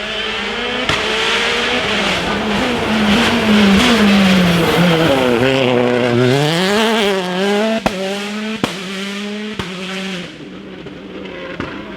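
Rally car driven hard on a special stage: the engine note climbs, drops sharply about halfway through and rises again, with several sharp cracks in the second half before the sound fades as the car moves away.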